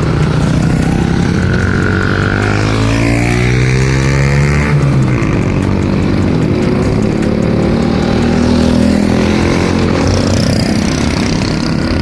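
Honda Super Cub's small single-cylinder four-stroke engine pulling under way. It rises steadily in pitch, drops suddenly about five seconds in as the gear changes, then climbs again and holds.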